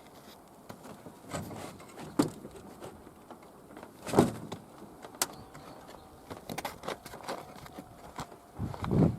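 Irregular knocks and light clatter, the loudest knock about four seconds in.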